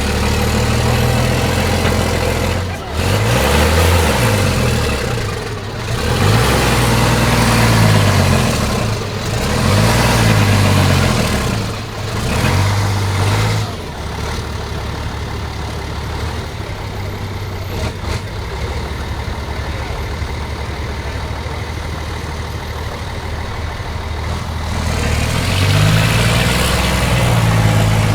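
Diesel engine of a 4x4 Liaz off-road trial truck, revving up and down repeatedly under load, then running steadier at lower revs for about ten seconds before the revs rise and fall again near the end.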